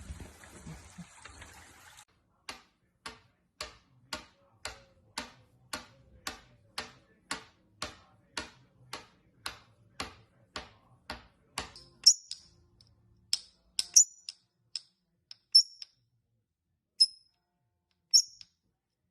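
Steady ticking, about two ticks a second for some ten seconds, followed by a handful of sharp, high-pitched parrot chirps, which are the loudest sounds.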